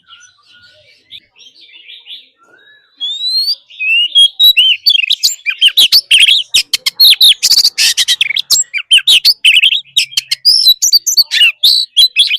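Oriental magpie-robin singing. Faint, scattered chirps give way about three seconds in to loud, rapid song of varied gliding whistles and sharp notes.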